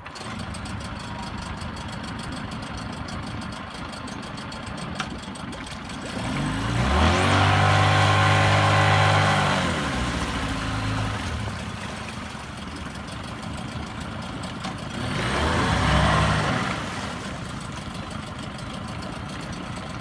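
2003 Mercury 25 hp outboard motor idling and revved twice. The first rev, about six seconds in, rises in pitch, holds for a few seconds and drops back to idle; the second, shorter one comes about fifteen seconds in.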